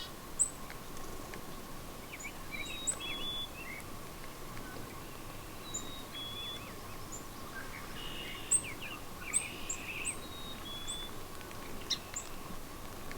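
Songbirds chirping and singing, short high calls scattered throughout, over a faint steady hum.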